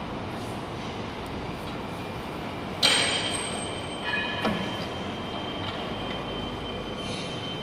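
Steady mechanical background noise. About three seconds in comes a sudden loud metallic clank, followed by a high, thin squeal that holds on, and a smaller knock about a second and a half later.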